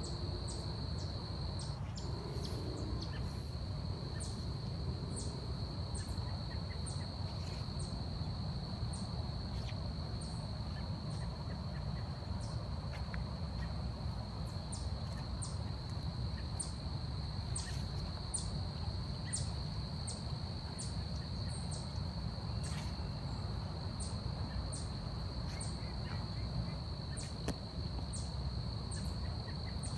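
Forest ambience: a steady high-pitched insect drone, with short high chirps repeating about once a second over a low, even rumble.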